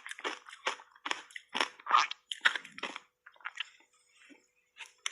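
Shaved ice being chewed in the mouth: a quick run of crunches for about three seconds, then sparser, fainter ones.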